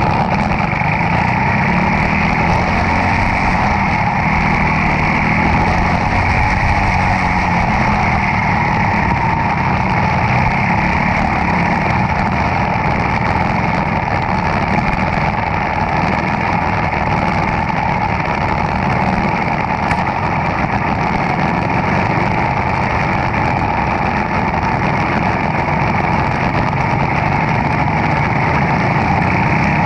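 Demolition derby car's engine running loudly, its pitch wavering up and down over the first several seconds, then a steady engine-and-noise din.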